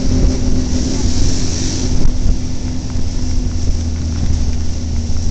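Trail motorcycle engine running steadily while riding, with wind buffeting the microphone.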